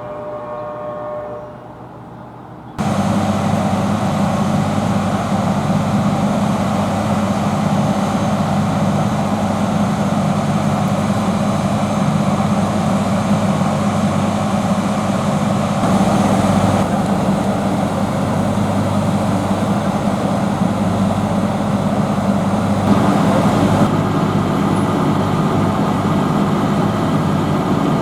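EMD SD40-2 diesel locomotive's two-stroke V16 engine running steadily at close range, its loud, even drone starting abruptly about three seconds in.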